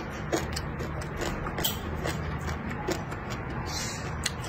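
Close-up eating sounds of a man chewing a mouthful of stir-fried pork and peppers: irregular short clicks and lip smacks over a steady low hum.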